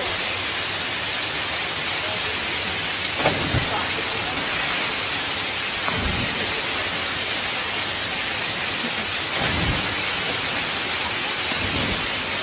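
Steady, loud rush of falling water, with a few short low thumps breaking through.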